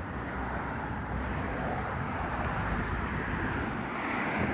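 Road traffic passing on a valley road, a steady rush of tyres and engines, swelling slightly about four seconds in as a vehicle goes by.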